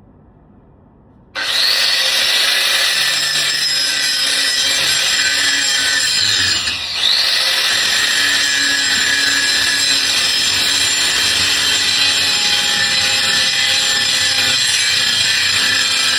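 Bosch 5-inch angle grinder switched on about a second and a half in, running loud and steady at full speed with a high whine. About seven seconds in it briefly drops in speed, then winds back up.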